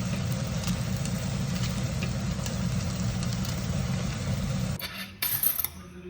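Steady low rumble like a running car engine heard from inside, which stops abruptly about five seconds in, followed by a brief bright clatter.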